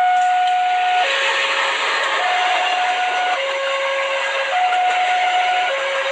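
Rail King Classic battery-powered toy train's electronic sound effect: a two-note tone swapping between a higher and a lower note about every second, over a steady hiss.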